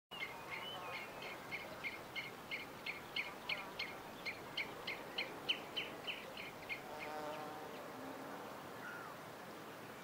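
A bird repeating a short, high note about three times a second for roughly seven seconds, over a steady background hiss. A lower call follows about seven seconds in.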